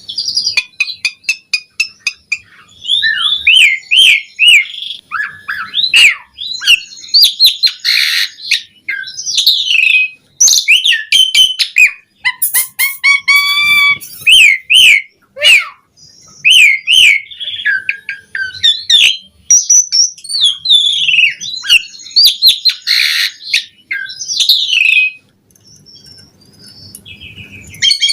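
Asian pied starling (jalak suren) singing a long, varied song of fast whistles, chirps and rattling notes, broken by short pauses and dropping off near the end.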